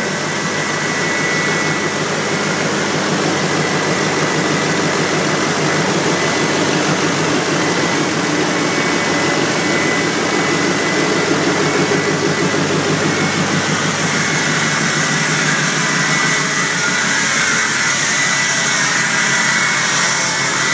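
An engine running steadily on its first start-up, with a thin steady whine over it.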